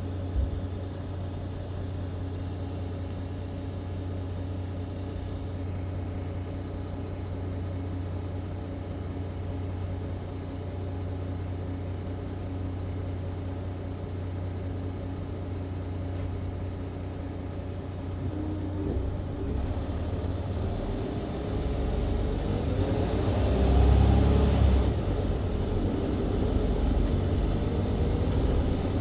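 Mercedes-Benz Citaro C2 LE MÜ Hybrid bus's diesel engine idling steadily, heard from inside the bus, with a short knock near the start. About eighteen seconds in the engine note starts rising as the bus pulls away and accelerates through its Voith automatic gearbox, loudest about twenty-four seconds in.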